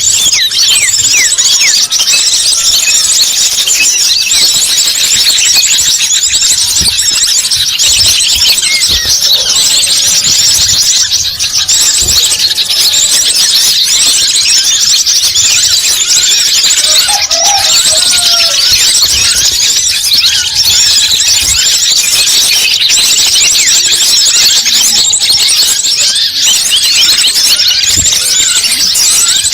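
Dense, unbroken, high-pitched chattering of many small birds, with rapid overlapping chirps and quick falling notes, played as a bird-lure (pikat) call.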